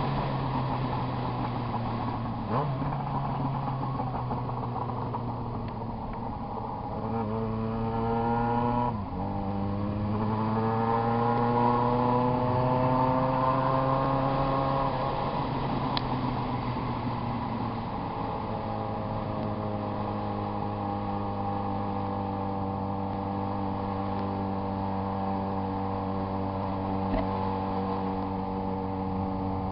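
Yamaha XJ6 motorcycle's inline-four engine: its pitch climbs, drops abruptly about nine seconds in, climbs again, then falls away and settles into a steady note for the rest of the time.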